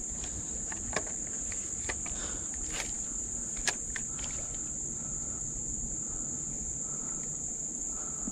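Steady, high-pitched drone of summer insects, with a few sharp clicks in the first half.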